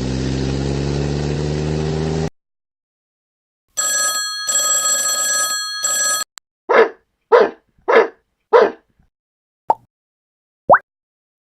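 A string of separate sound effects with gaps of silence between them: a steady engine hum rising slightly in pitch that cuts off suddenly, then a ringing bell-like tone in three bursts, then four short barks about half a second apart, a single click and a short rising chirp near the end.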